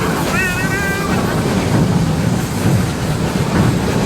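Park tour train running along its track: a steady low rumble of wheels and carriages. A short high-pitched squeal sounds in the first second.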